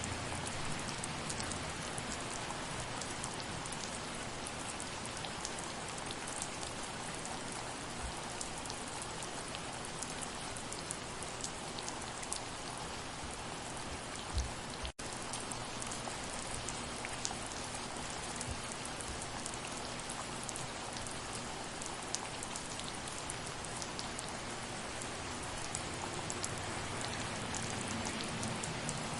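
Steady soft rain: an even hiss of rainfall with scattered individual drops ticking. About halfway through, the sound cuts out for a split second.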